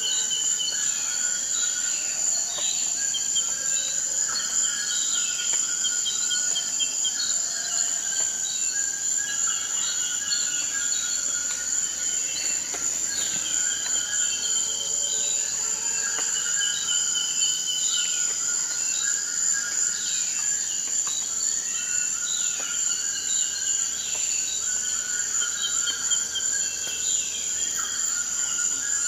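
Forest night-style ambience: a steady, unbroken high-pitched insect trill, with many repeated short chirping calls and quick falling notes from other creatures layered over it.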